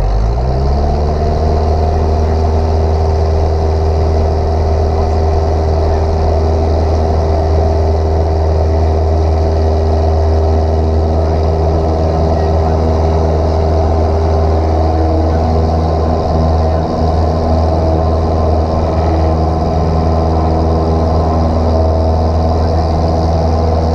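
A light single-engine airplane's piston engine, heard from inside the cockpit. It rises quickly in pitch at the start as the throttle is opened to full power for takeoff, then runs steadily at high power.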